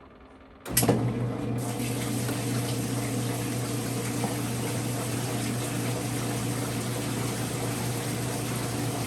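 Whirlpool direct drive washer starting up with a click about a second in, then running with a steady electrical hum and a constant rush of water.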